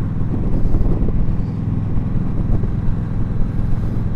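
Indian Scout Sixty's V-twin engine running steadily while riding at a cruising pace.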